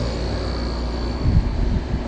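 2005 Gold Star 6500 BTU window air conditioner running on high cool, with compressor and fan going: a steady low hum under an even rush of air. A few low thumps come about a second and a half in.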